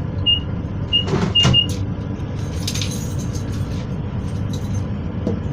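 Steady low rumble inside a Class 221 Voyager diesel train. Four short high beeps come in the first two seconds, and a couple of knocks around a second in.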